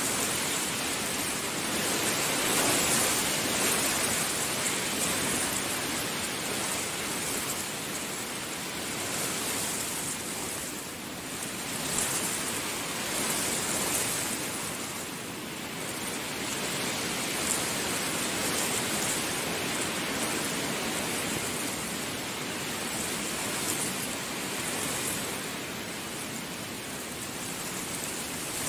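Heavy rain falling steadily, a dense hiss that swells and eases every few seconds.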